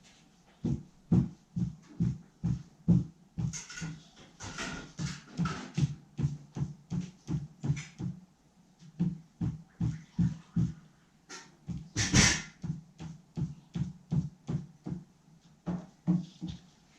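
A spatula scraping and working thick two-part epoxy bond on a hard surface, in repeated strokes about two a second with a short pause partway through.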